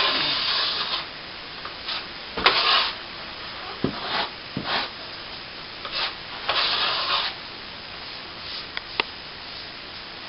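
Plastering trowel scraping across a patch of setting cornice cement on a plasterboard ceiling in about five separate strokes, polishing it smooth. A couple of light clicks near the end.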